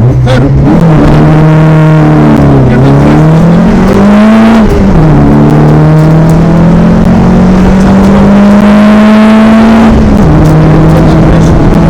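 VW Golf GTI Mk1 rally car's four-cylinder engine, heard from inside the cabin, accelerating hard. The pitch climbs through each gear and drops back at each upshift, once near the middle and once near the end, with a brief dip early on.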